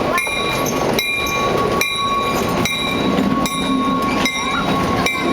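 Skunk Train cars rolling past close by, their wheels clacking over the rail joints in a regular rhythm a little faster than once a second, over a steady rumble and a steady high-pitched ring.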